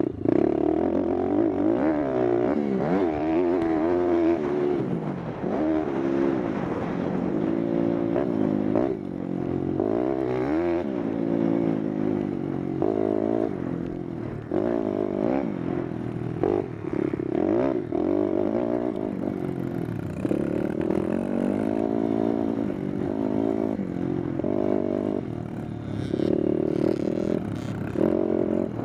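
Pitster Pro LXR pit bike engine being ridden hard: it revs up and falls back over and over, its pitch climbing and dropping every second or two with throttle and gear changes.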